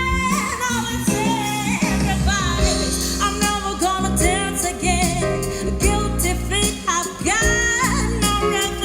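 A song with a singing voice over bass and accompaniment, played loud through a pair of Iron Eagle IE-6150 6-inch car midrange speakers, with tweeters and a subwoofer running alongside.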